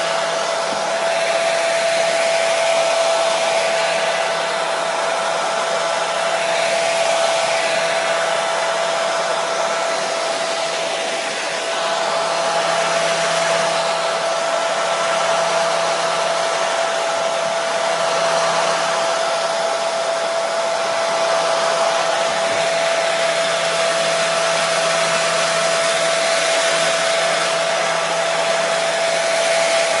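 Hair dryer running steadily, an even rush of blown air under a constant motor whine.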